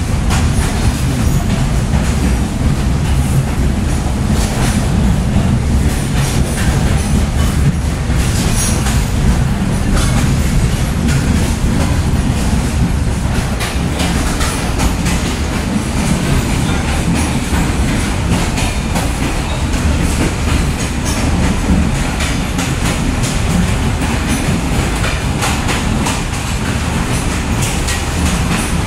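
Rolling railcar heard from inside a caboose: a steady, loud low rumble of the wheels and car body on the track, with scattered knocks as the wheels cross rail joints.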